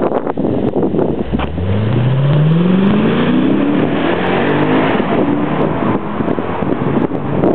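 Lexus LFA's V10 accelerating, its note rising steadily in pitch for about two seconds from just over a second in, then holding, under heavy wind noise on the microphone.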